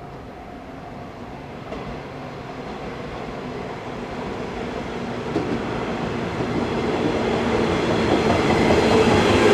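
JR West 103 series electric commuter train approaching and running past, growing steadily louder, its wheels clattering over the rail joints.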